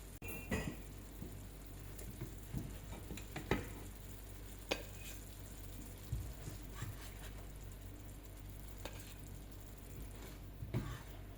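Hamburger steak patties of beef mince frying in a pan with a steady sizzle, and a few sharp clicks and knocks of a utensil against the pan.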